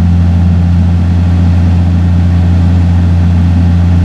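An engine running at a steady idle, a loud even low hum that does not change.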